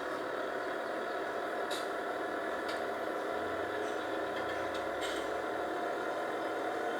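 A machine engine running steadily, with a few faint clicks.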